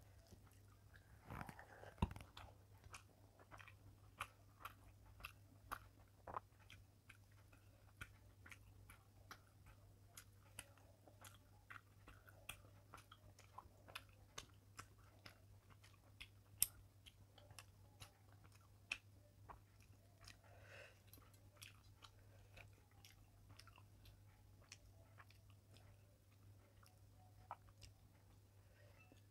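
Faint close-miked chewing of rice and fish, with many small wet mouth clicks scattered throughout. A faint steady low electrical hum runs underneath.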